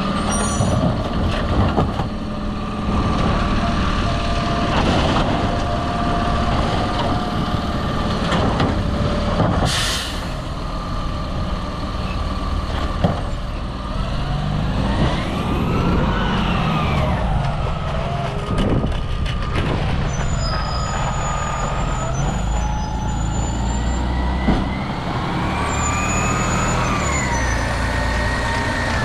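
Autocar recycling truck with a Labrie Automizer side-loader body running on its route, the engine's pitch rising and falling as it revs. There is a short air-brake hiss about ten seconds in.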